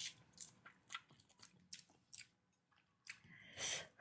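A person chewing and biting on spicy chicken feet close to the microphone: faint, irregular wet clicks and crunches, with a louder one near the end.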